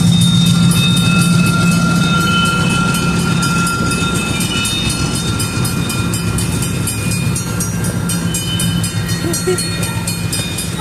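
Diesel excursion train running past at close range: a steady low engine hum with a fast, even clicking throughout.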